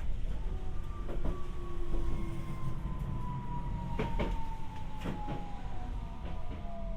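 Tokyu Setagaya Line 300-series tram car heard from on board, running with a low rumble. The traction motor's whine falls slowly in pitch as the car slows. A few sharp knocks from the wheels on the track come about a second, four seconds and five seconds in.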